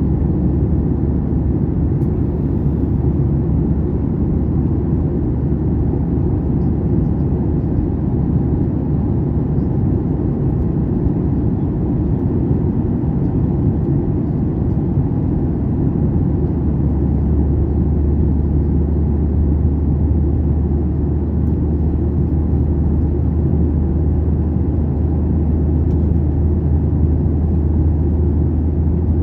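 Steady low rumble of an airliner's cabin noise, from the engines and the plane's motion. A low hum grows stronger a little past halfway.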